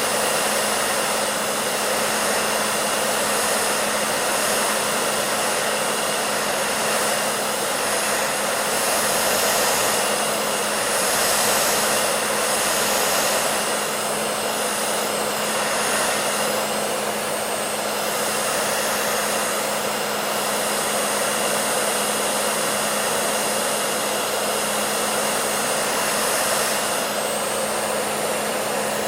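Electric hair dryer running continuously: a steady rushing of air over a low motor hum, with slight swells in the airflow now and then.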